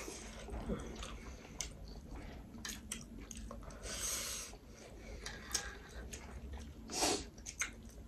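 Close-up eating sounds: a person chewing, with scattered short clicks and two brief louder mouth noises, about four and seven seconds in.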